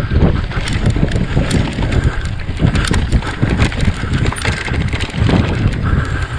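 Mountain bike riding fast down rough singletrack: tyres rumbling over the ground, frame and chain rattling in quick irregular clicks, and wind buffeting the microphone.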